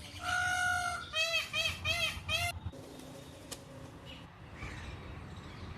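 Indian peafowl (peacock) calling: one longer nasal call, then a quick series of about five short calls that stop about two and a half seconds in.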